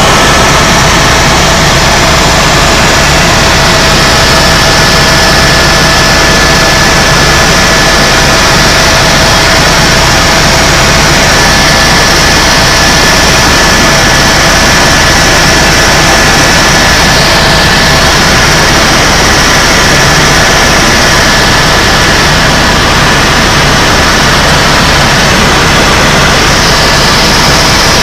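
Helicopter in flight heard from inside the cabin: loud, steady rotor and turbine noise with a low rumble and a thin, steady whine over it.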